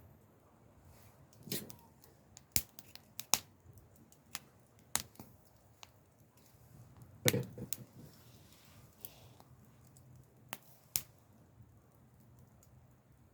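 Wood burning in a campfire, crackling with irregular sharp pops, and two duller knocks about a second and a half in and about seven seconds in.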